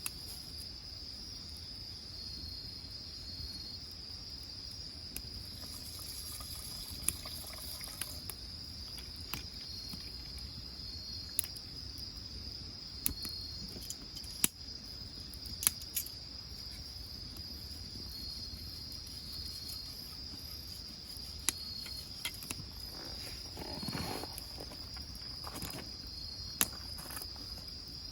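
Wood fire crackling in a wood-burning grill, with sharp pops every few seconds, over the steady high chirping of crickets.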